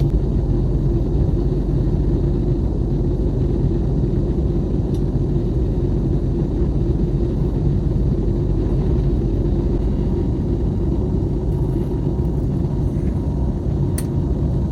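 Steady low cabin rumble inside an Airbus A321neo airliner, with one light click near the end.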